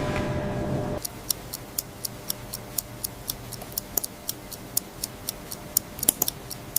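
A mechanical watch movement ticking evenly, about four ticks a second. Before the ticking starts, a machine runs with a steady hum and cuts off about a second in.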